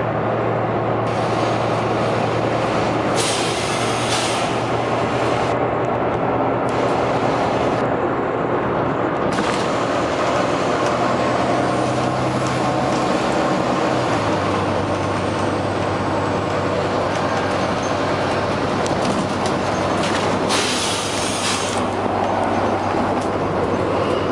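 Volvo B9TL double-decker bus's six-cylinder diesel running steadily under way, its low note stepping down about 14 seconds in. Sharp hisses of air from the bus's air-brake system cut in over it, one at about 3 to 4 seconds in and another at about 21 seconds.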